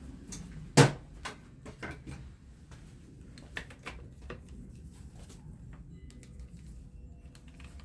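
Parts and tools being handled while a fan is taken apart: one sharp knock about a second in, then lighter clicks and taps.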